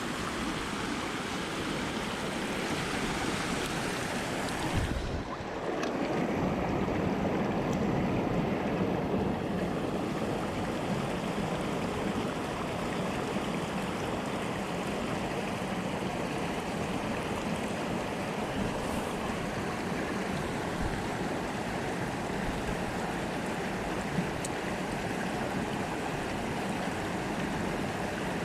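Steady rush of a mountain stream's flowing water, with a brief low thump about five seconds in.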